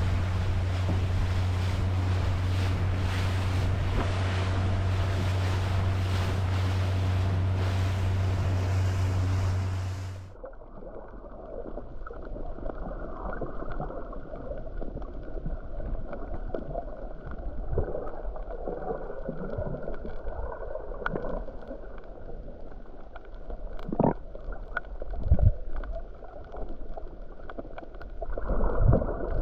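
A boat's engine running with a steady low drone under wind noise. About ten seconds in it cuts to a quieter, muffled stretch of water sloshing, with a few sharp knocks near the end.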